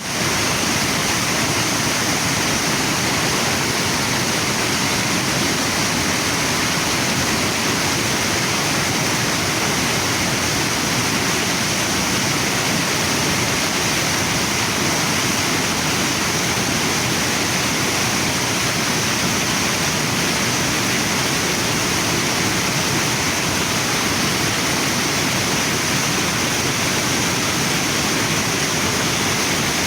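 Waterfall and river water rushing steadily, an even, unbroken wash of noise.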